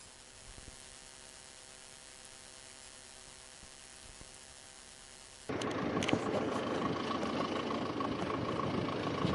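A faint steady hum, then an abrupt jump about five and a half seconds in to loud, steady engine noise with a high steady whine and scattered clicks.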